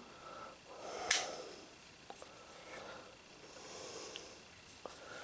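Soft breathing close to the microphone, with one sharper sound about a second in and a few faint small clicks of the pistol being handled.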